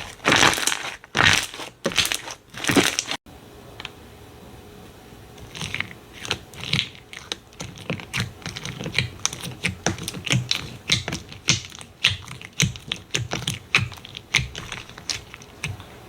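Slime being squeezed and pressed by hand. There are about four loud crunchy squeezes in the first three seconds, then a quiet gap, then from about five seconds in a long run of quick small clicks and pops.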